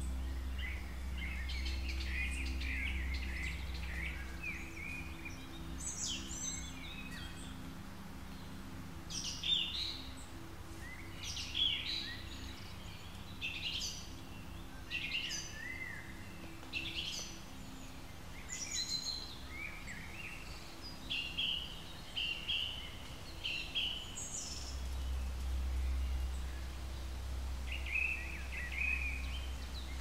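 Small birds chirping and singing in short, repeated calls throughout, over a low steady hum that fades out about four seconds in and comes back near the end.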